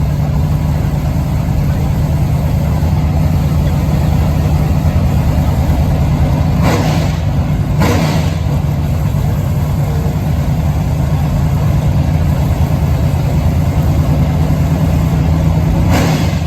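A car engine idling loudly with a steady low drone at constant pitch. Two pairs of short, sharp bursts about a second apart cut through it, one pair near the middle and one at the end.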